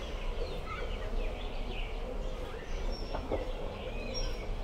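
Birds chirping and calling in short, scattered notes and brief whistles over a steady low background noise.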